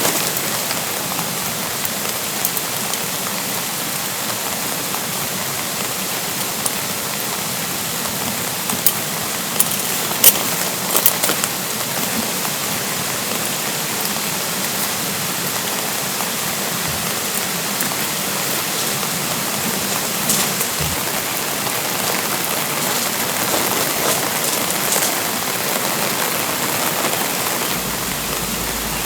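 Steady spring rain falling, with a valley stream running underneath. A few sharper drops tick out about nine to eleven seconds in.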